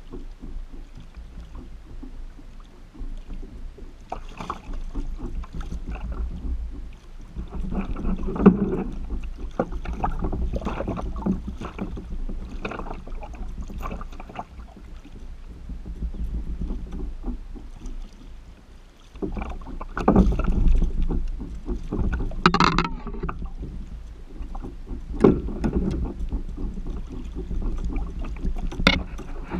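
Kayak on the water: irregular splashes and swishes of water around the hull, with scattered knocks and a constant low rumble.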